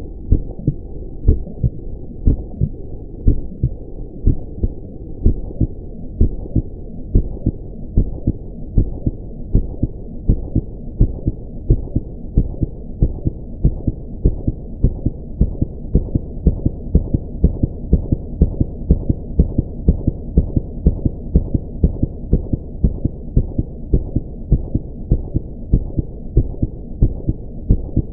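Amplified heartbeat: a long, regular run of low, muffled thumps over a steady hiss.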